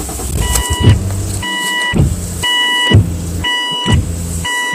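A dashboard warning chime dinging about once a second, five times, over the 2000 Mazda MPV's 2.5-litre Duratec V6 running just after a cold start, at a slightly high idle.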